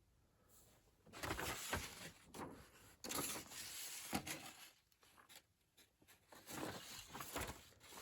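Paper rustling as a glossy brochure's fold-out page is opened and handled, in irregular bursts with a short pause a little past the middle.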